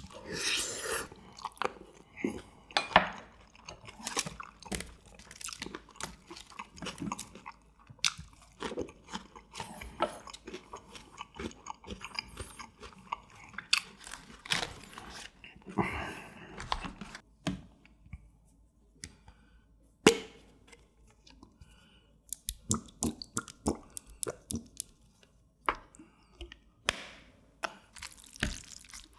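A person chewing mouthfuls of ganjjajang, black bean sauce with onion, close to the microphone, heard as a run of short clicks and crunches.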